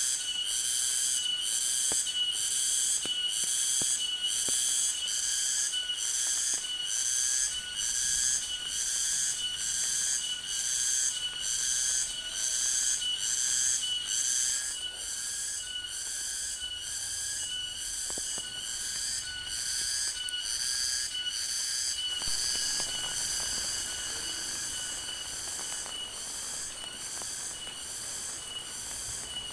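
A chorus of calling insects, pulsing evenly about twice a second at a steady high pitch. A faint low rushing noise with light ticks comes in about two-thirds of the way through.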